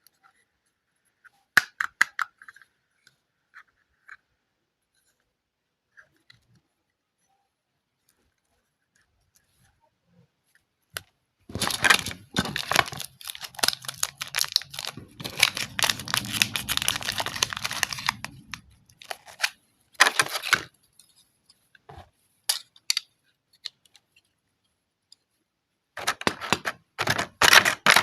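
Packaging being torn and unwrapped by hand: scattered small clicks at first, then long stretches of dense crinkling and tearing from about the middle on, with a short burst after that and more near the end.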